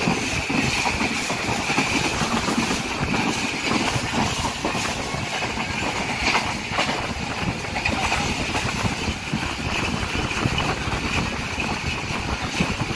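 Passenger train running at speed, heard from inside the carriage at the window: a steady rumble of wheels on the rails mixed with wind rush, with a few faint clicks from the track.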